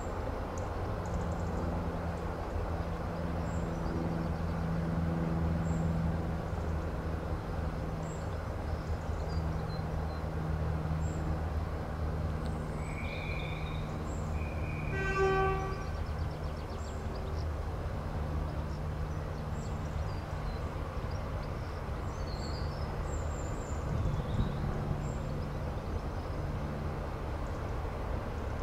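A locomotive's engine running with a steady low hum, and one short toot about halfway through. Birds chirp now and then.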